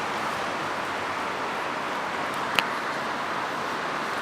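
Steady rushing noise with one sharp click a little past halfway.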